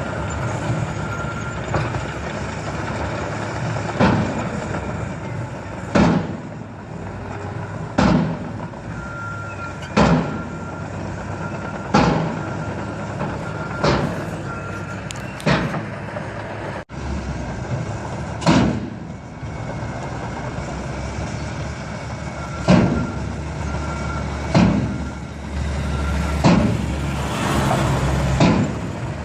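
Truck running steadily with sharp, loud bangs repeating roughly every two seconds, about a dozen in all.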